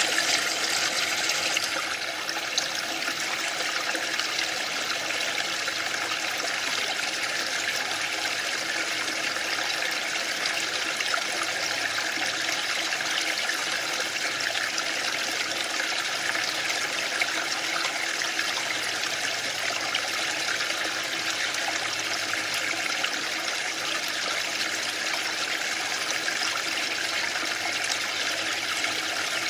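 Waterfall: a steady, even sound of falling and splashing water, a little brighter for the first two seconds.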